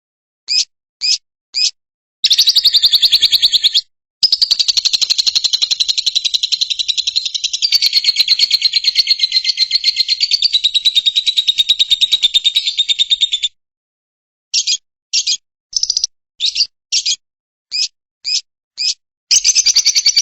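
Lovebird calling: a few short high chirps, then a long, rapid, unbroken trill lasting about ten seconds with one short break. The trill is followed by a string of quick chirps, and a second trill begins near the end.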